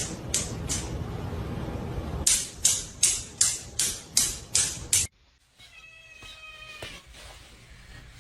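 A run of rhythmic scratchy strokes, about two and a half a second, that stops abruptly about five seconds in. Then comes a quieter cat meow.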